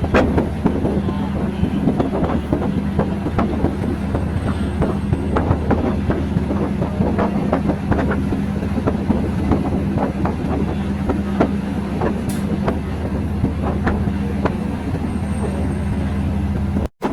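Train running along the track: a steady low engine drone under irregular clacks of the wheels over rail joints. The sound breaks off for a moment near the end.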